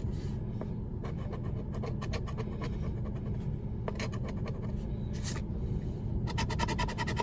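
A scratch-off lottery ticket being scratched: short, quick scraping strokes coming in bursts, with a fast run of strokes near the end, over a steady low hum.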